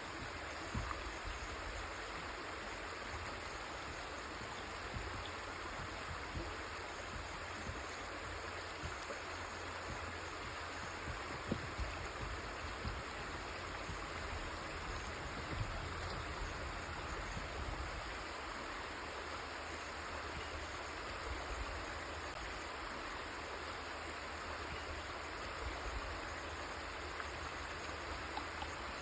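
A river flowing steadily, an even rushing of water, with small low splashes or knocks here and there in the current.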